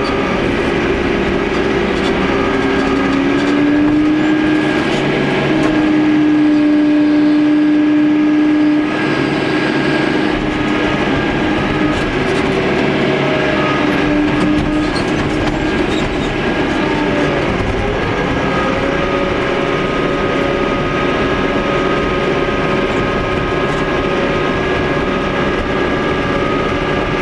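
Tractor engine running steadily while pushing up moss, with a few whining tones that slide up and down as the revs change.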